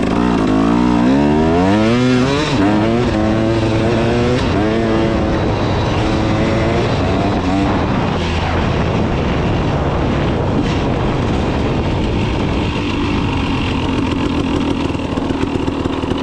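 KTM 300 two-stroke dirt bike engine revving up through the gears, its pitch climbing and stepping with each shift over the first few seconds and dropping back, then running more steadily under way.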